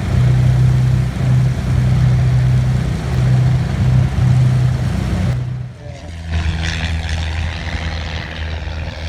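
An engine running loudly and steadily. About five seconds in it cuts off abruptly, giving way to a quieter, lower engine hum.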